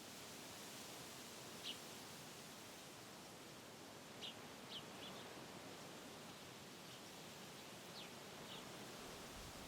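Faint, steady rustle of wind through trees, with a handful of short, high bird chirps scattered through it.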